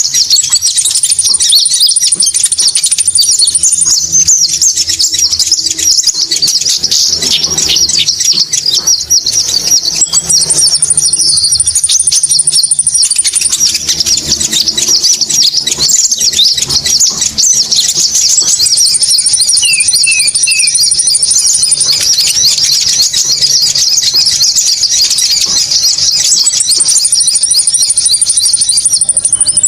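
Recorded konin birdsong played as a lure call: a dense, unbroken chatter of rapid high-pitched chirps, with a thin, higher trill of about three seconds coming back roughly every eight seconds.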